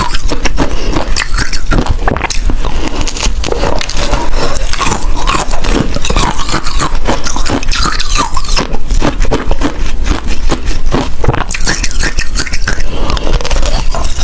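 Ice being bitten and chewed up close to the microphone: a loud, continuous run of irregular cracks and crunches.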